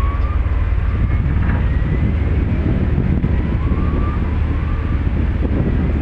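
Steady low engine rumble with an even wash of noise over it. Faint short rising tones come and go every second or two.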